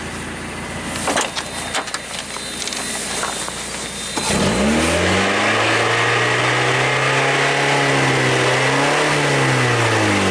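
A few clicks and knocks. Then, about four seconds in, a car engine revs up sharply, holds steady revs for about five seconds and starts to drop away near the end.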